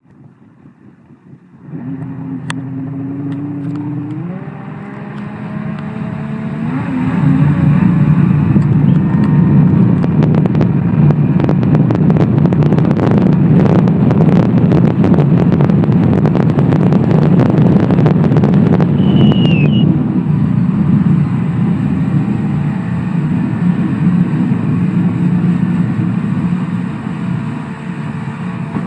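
Kawasaki STX-1100 jet ski's two-stroke three-cylinder engine starts up under throttle about two seconds in, its pitch climbing in a few steps as it accelerates at full throttle. It then holds a loud, steady high-speed run with rapid rattling knocks through the middle, easing slightly near the end.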